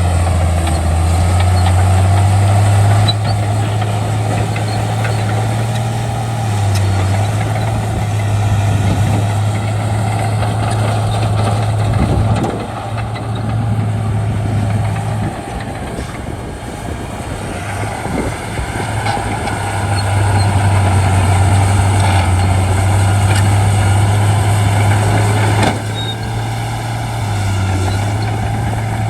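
Shantui D95 bulldozer's diesel engine running under work, its low hum stepping up and down in pitch as the load and throttle change, with a few faint knocks.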